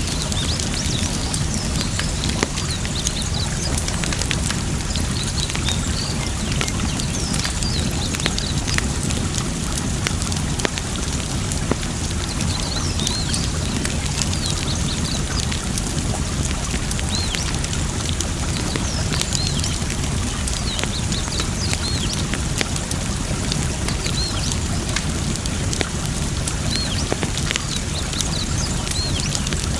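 Wood fire crackling with frequent sharp pops and snaps over the steady rush and trickle of flowing water.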